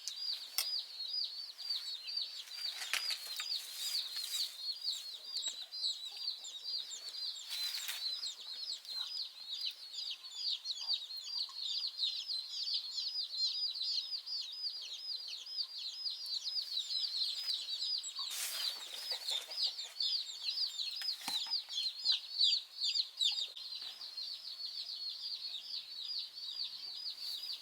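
Many small birds chirping in a dense, continuous chorus of short high chirps, several a second, with a few brief rustling noises over it.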